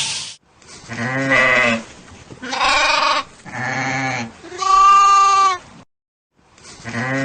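An animal bleating: four separate wavering calls about a second each, the fourth higher-pitched and the clearest, with a fifth call starting near the end.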